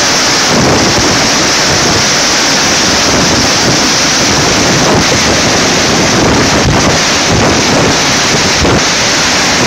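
Heavy typhoon-driven surf breaking against the shore, a steady loud rush of water, with strong wind buffeting the microphone.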